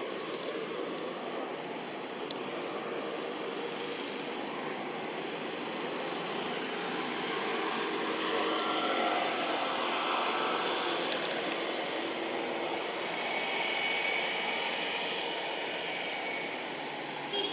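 Steady outdoor background noise like distant traffic, with a short high chirp repeating about once a second.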